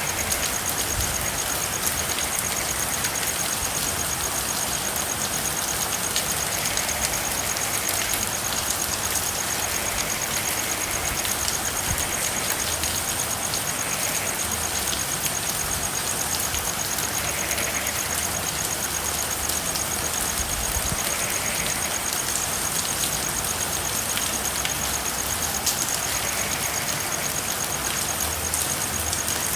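Steady rain falling, with a continuous high, finely pulsing trill and soft frog calls every few seconds.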